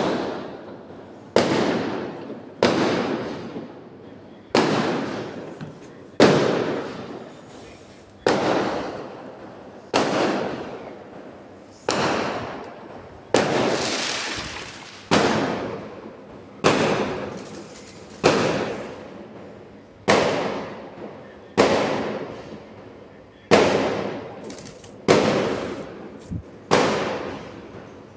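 Firecrackers going off one after another, about one every one and a half to two seconds. Each is a sharp bang with a fading tail.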